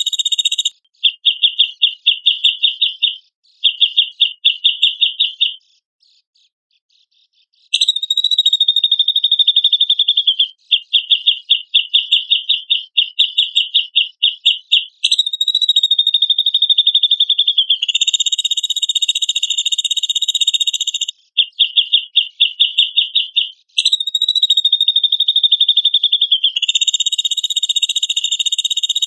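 Cucak jenggot (grey-cheeked bulbul) song played as a training recording: loud, high, rapid chattering trills and longer buzzy strains that dip slightly in pitch, in repeated bouts, with a pause of about a second and a half near the middle.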